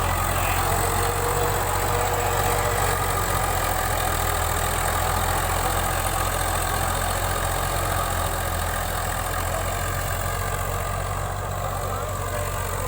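Tractor engine running at a steady speed, a constant low hum under a wide mechanical noise, with no change in pitch.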